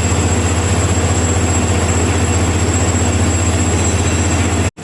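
Kobelco screw air compressor running steadily: a loud low hum with a rapid pulsing flutter and a steady high whine. The sound drops out for an instant near the end.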